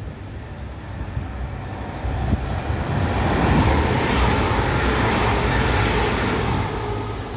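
A train passing. Its rumble and rail noise swell from about two seconds in, stay loud for a few seconds, then fall away near the end.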